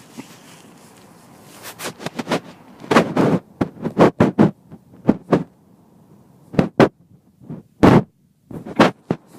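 A dog chewing a stick, the wood cracking and crunching in irregular sharp snaps, several in quick succession, with short pauses between bites, starting about two seconds in.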